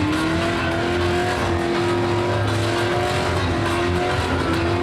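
A car engine held at high revs in a burnout, its pitch climbing a little at the start and then staying steady, over the rushing noise of spinning tyres.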